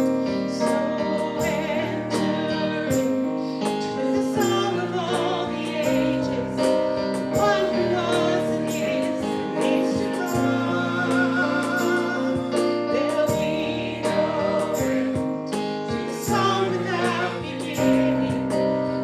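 Congregational worship music: a female voice singing over sustained keyboard or piano chords.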